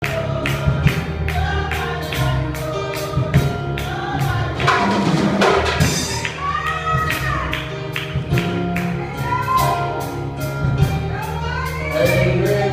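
Gospel music: voices singing over steady bass notes and a regular percussion beat.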